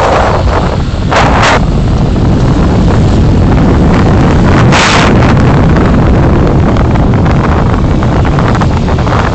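Loud, steady low rumble of road and wind noise from a moving car, with short hissing swells at the start, about a second in, and about five seconds in.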